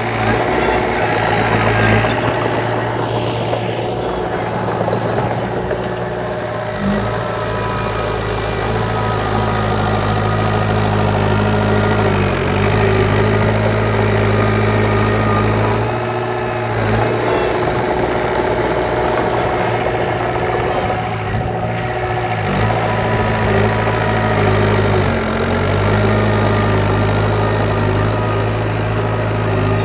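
Diesel engine of heavy earthmoving machinery running steadily, with a brief shift in its pitch every few seconds as the load changes.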